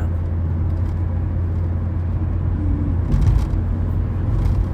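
Steady car-cabin noise while driving in the rain: a low engine and road rumble with tyre hiss from the wet road, and a brief louder bump a little after three seconds in.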